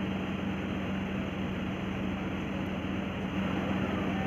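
Steady vehicle running noise: an even rumble with a constant low hum, unchanging throughout.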